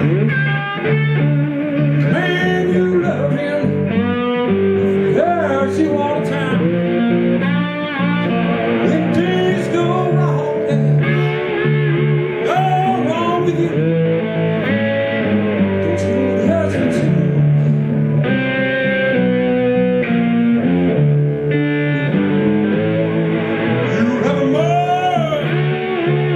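Live blues music: an electric guitar playing with many bent notes over a bass line played on a seven-string guitar, steady with no breaks.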